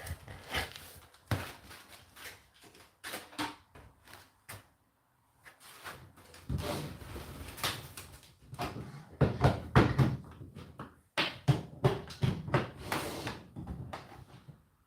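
Irregular knocks, clunks and rustling of things being handled, like a door or cupboard being opened and shut, bunched into a busy stretch in the second half.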